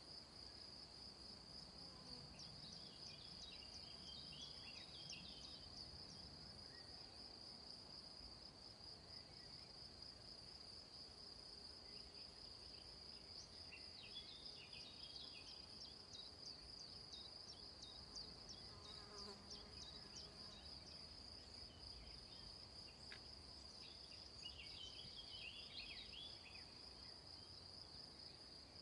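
Faint summer insect chorus: a steady high-pitched trill that runs on without a break. Short clusters of higher chirps come three times, near the start, in the middle and near the end.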